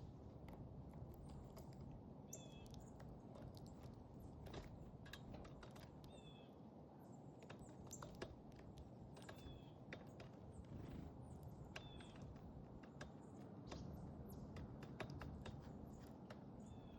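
Small backyard songbirds giving short, repeated chirp calls every couple of seconds, with scattered light clicks and taps over a faint steady low rumble.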